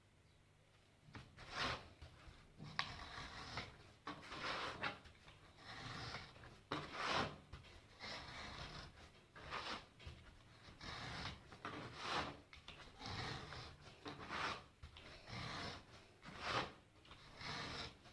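Abrasive hand strokes rubbing over MDF, a rasping rub repeated unevenly about once a second, as in hand sanding.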